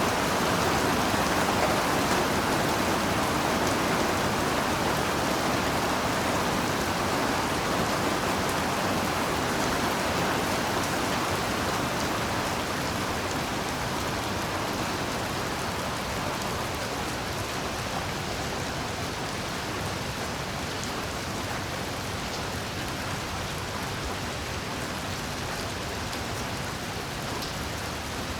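Heavy rain falling steadily, a dense hiss with scattered individual drops, easing slightly over the span.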